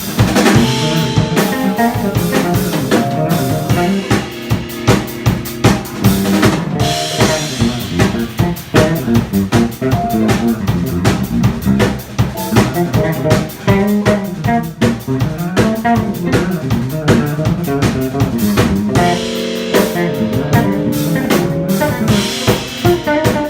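Live jazz combo of guitar, piano, bass and drum kit playing a tune, with the drum kit busy and prominent throughout.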